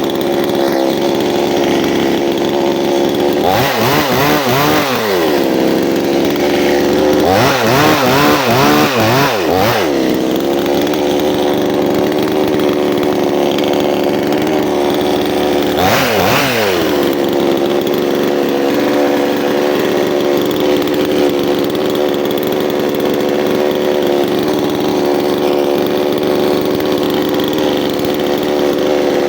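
Two-stroke chainsaw running at steady high speed. Its engine pitch dips and climbs back a few times: about four seconds in, repeatedly between about seven and ten seconds, and once more around sixteen seconds.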